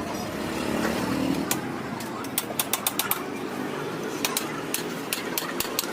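A series of sharp, irregular metallic clicks and taps, several a second in clusters, from hand tools working at the DB killer inside the Jawa 42FJ's exhaust.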